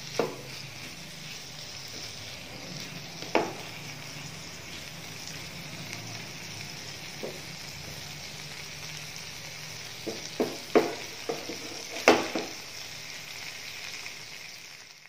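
Beef and bell pepper stir fry sizzling steadily in a nonstick frying pan while it is stirred, with a wooden spatula knocking and scraping against the pan now and then. The knocks come thickest around ten to twelve seconds in. The sizzle cuts off just before the end.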